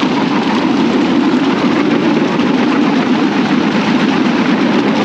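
Bamboo train (norry) on the move, its small motor running steadily.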